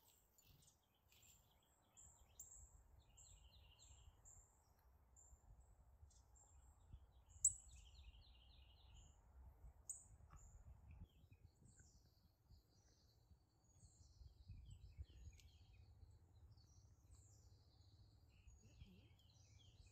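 Faint bird calls over a low outdoor rumble: runs of short, high chips several times a second, a few brief trills, and one sharper, louder chip about seven and a half seconds in.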